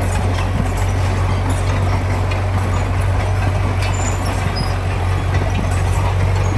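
Heavy diesel construction machinery running steadily: a constant low engine drone under a rough mechanical rattle, with occasional faint clanks.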